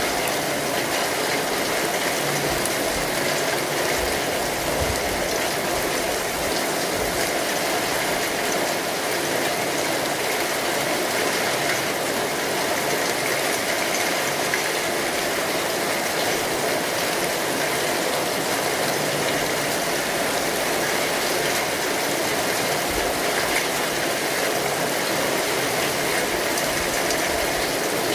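Rain falling steadily on an umbrella, a dense, even hiss of drops that does not change.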